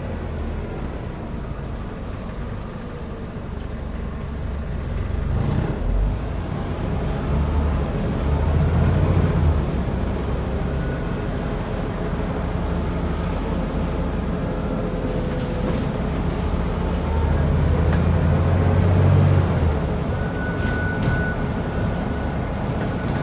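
Scania N94UD double-decker bus's diesel engine running under way. It builds up and pulls harder twice, about a quarter of the way in and again about three-quarters through.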